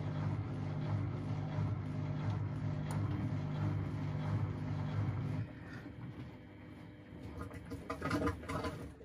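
Washing machine running with a steady low hum that cuts off about five and a half seconds in, leaving quieter noise and a short cluster of clicks near the end.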